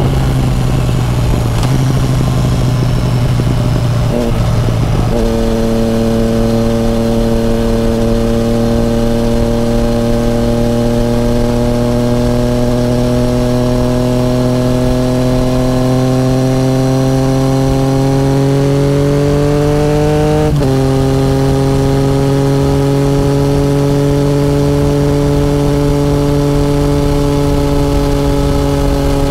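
Yamaha FZ-09's inline three-cylinder engine running under way, its pitch climbing slowly as it pulls, with a brief break in the engine note about four seconds in and a sudden step in pitch about twenty seconds in, like gear changes. Steady wind rush on the microphone underneath.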